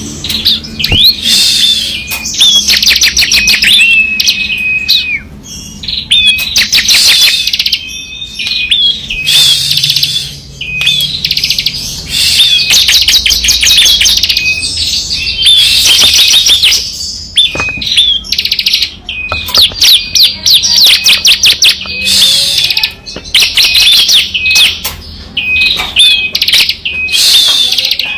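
Ciblek kristal (bar-winged prinia) singing loudly in repeated bursts of very rapid, rattling high trills. This is the 'ngebren' machine-gun song, with short breaks between phrases.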